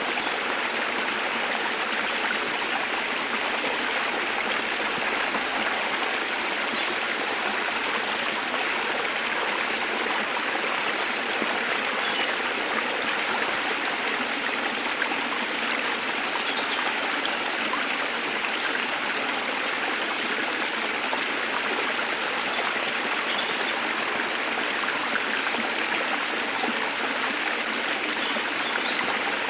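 Waterfall and stream water rushing steadily, with a few faint, brief bird chirps scattered over it.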